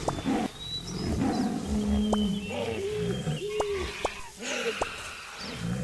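Several wild animals calling at once: short, arching calls, some sharp clicks and a few high whistles over a low rumble.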